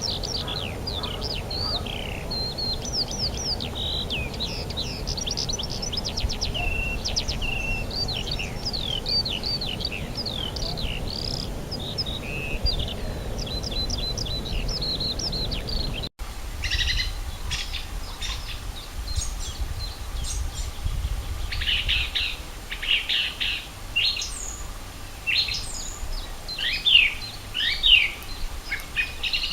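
Wild birds singing in spring: a dense, continuous run of quick high chirps and trills from several birds. About halfway through it breaks off abruptly and resumes as sparser, separate calls. A low steady background rumble runs underneath.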